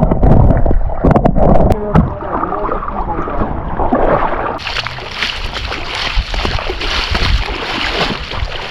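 Creek water splashing and sloshing, with a heavy low rumble and several sharp knocks in the first couple of seconds. About halfway through, a steady rush of flowing water comes in and carries on.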